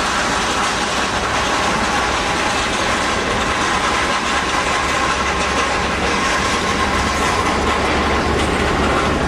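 Jet airliner engines running: a loud, steady noise with no pauses.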